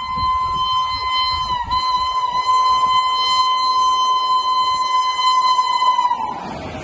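Train horn of the Howrah Jan Shatabdi Express sounding one long steady blast. Its pitch dips briefly twice, then slides down as the blast dies away near the end.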